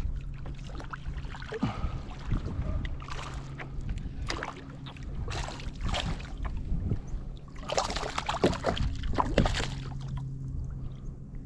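Kayak on the water: water sloshing and trickling against the hull, with scattered knocks and rustles, over a low steady hum.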